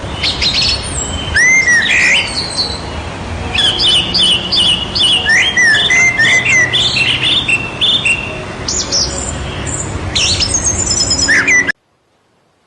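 Several birds chirping and whistling in quick, overlapping calls over a steady low background hiss; everything cuts off abruptly near the end.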